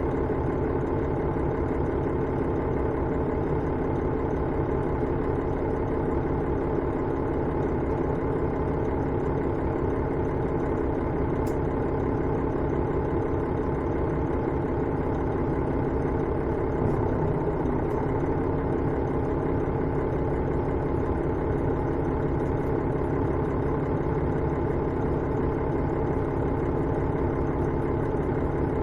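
Diesel engine of a KiHa 110-series railcar (KiHa 112-3) running at a steady pitch, heard from inside the passenger cabin. A couple of faint clicks come over the hum.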